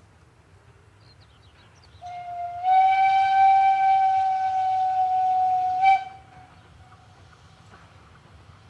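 Steam locomotive whistle blown once for about four seconds: one steady high tone that steps up slightly in pitch just after it opens, then cuts off.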